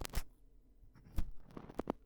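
Close-miked ear-cleaning sounds: a tool scratching and tapping at a microphone's ear in short crackly strokes. There is one stroke near the start, one about a second in, and a quick run of several near the end.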